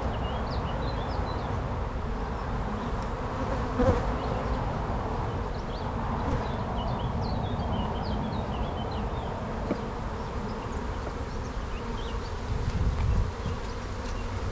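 A honey bee colony buzzing steadily around an opened hive, a dense hum of many bees, with a short knock about four seconds in.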